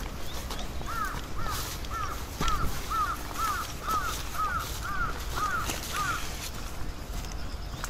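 A bird calling a quick series of about eleven short, arched notes, about two a second, stopping about six seconds in.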